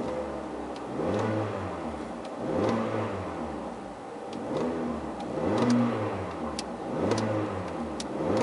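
2011 Kia Cerato's 2.0-litre four-cylinder engine being revved repeatedly with the car standing still, heard from inside the cabin. Each rev is a short rise and fall in pitch, coming about every second and a half.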